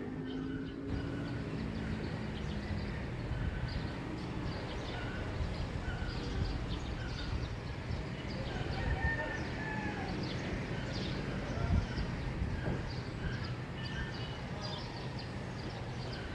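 Many small birds chirping and calling at dawn, short overlapping chirps throughout, over a steady low hum of distant neighbourhood noise.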